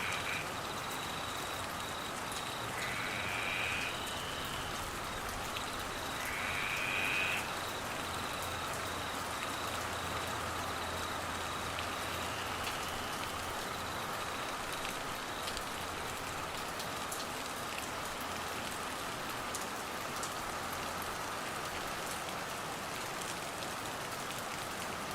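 Heavy rain falling steadily. Two short rising calls come through the rain, about three and seven seconds in.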